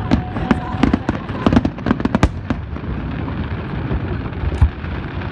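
Aerial fireworks going off: a quick run of sharp bangs and pops over the first two seconds, then a steadier rumble of crackling and echo, with one more loud bang near the end.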